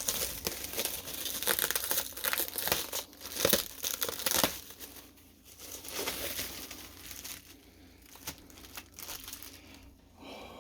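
Packing material crinkling and rustling as it is pulled away by hand during an unboxing, dense and loud for the first four or five seconds, then quieter with scattered light crackles and clicks.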